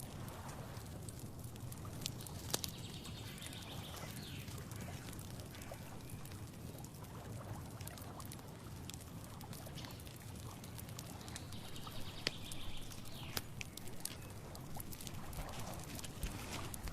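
Outdoor nature ambience: a steady low rumble with many small scattered clicks and rustles, and two brief higher sounds, one about two and a half seconds in and one about twelve seconds in.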